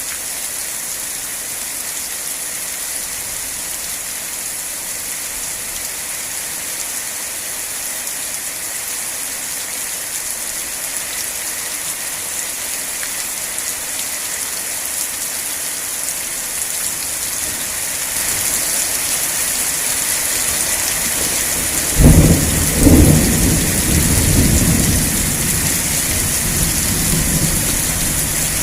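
Steady rain hiss that grows heavier, then a sudden thunderclap about three-quarters of the way through, cracking twice and rumbling off over a few seconds.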